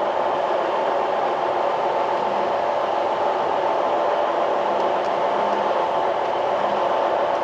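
Steady running noise of a semi truck's diesel engine and drivetrain, heard from inside the cab, with no change in pitch or level.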